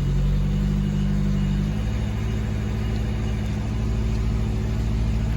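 1985 Toyota Tercel's 3A-C carbureted four-cylinder engine running at a fast idle just after a cold start following three months of storage, its pitch stepping down slightly about two seconds in as the idle settles.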